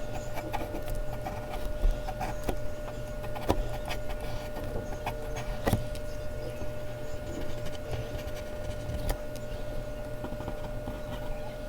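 Mechanical pencil scratching on Bristol paper in short, quick strokes, with a few sharper taps of the pencil.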